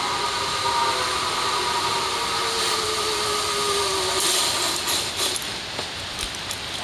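Zip-wire trolley running along its steel cable: a steady rushing with a faint whine that slowly falls in pitch as it slows. The whine fades about four seconds in, followed by a short hiss and a few clicks.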